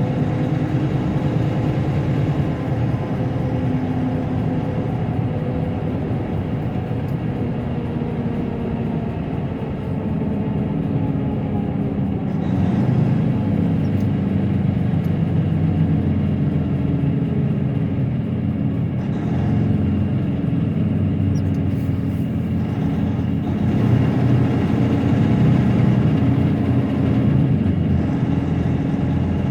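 Semi-truck's diesel engine running with road noise while driving on the highway, heard from inside the cab. The engine note drifts slowly lower over the first ten seconds, then runs steadily and a little louder.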